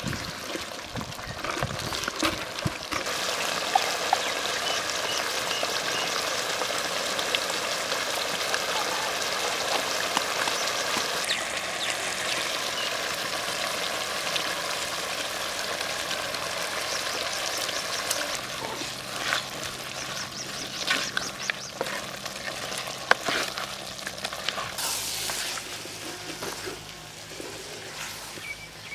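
A thick masala sizzling and steaming in a clay pot over a wood fire. The steady hiss comes in about three seconds in and eases off near the end. Now and then a wooden ladle stirs and scrapes against the pot, giving short clicks and scrapes.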